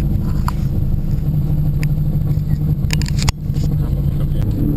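Subaru Impreza STI RA's turbocharged flat-four engine idling steadily, heard from inside the cabin, with a single sharp knock about three seconds in.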